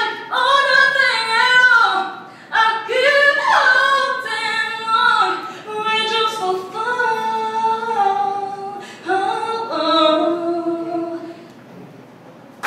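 Female voice singing a cappella in long held phrases with sliding pitch; the last phrase ends about eleven seconds in.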